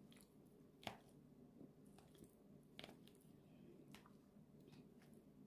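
Near silence with a few faint, short wet clicks from quiet chewing, the most distinct about a second in and another near three seconds.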